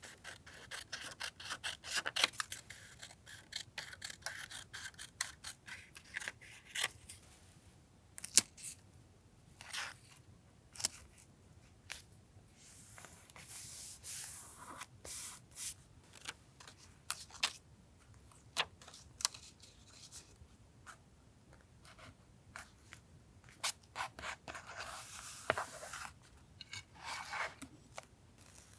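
Paper craft handling: scissors snipping through paper in quick runs of clicks, with paper sliding and rustling against paper and the desk in between.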